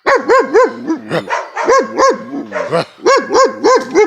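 Big dogs barking loudly and rapidly, about three or four barks a second in quick runs with short breaks between them.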